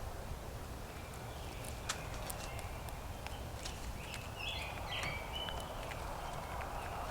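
Scattered sharp taps and clicks over a steady low rumble, with a brief stepped bird call about four and a half seconds in.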